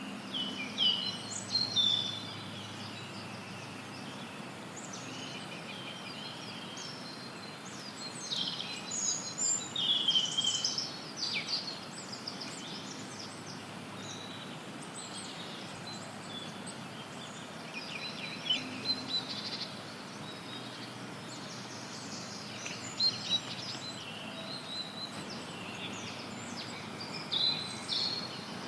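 Songbirds chirping and trilling in scattered bursts over a steady even hiss of added white noise.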